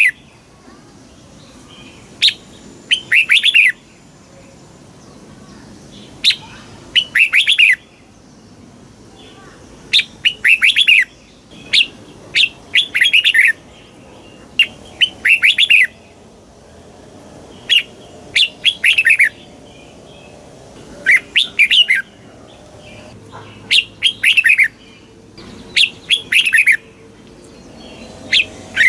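Red-whiskered bulbul singing, short bright phrases of several quick falling notes repeated every two to three seconds.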